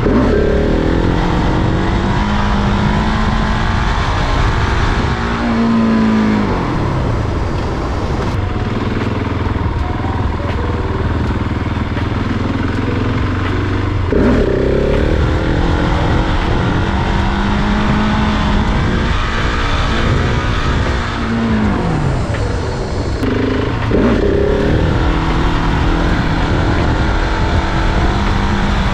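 Supermoto motorcycle engine revving hard three times, about 14 s and about 24 s in as well as at the start. Each time it holds a steady high pitch for several seconds, then drops off as the throttle is closed: acceleration runs for wheelies.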